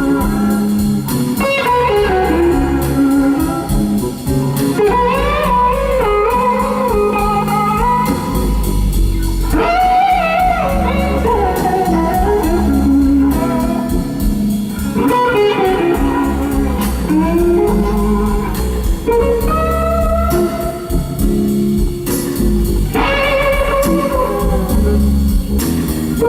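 Slow blues played live by a band: an electric guitar solo with bending, gliding notes over a steady bass line, with no singing.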